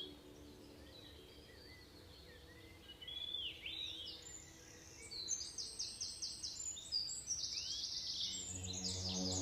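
Wild birds calling: several short up-and-down chirps, then from about halfway a fast run of high repeated notes. Soft ambient music comes back in near the end.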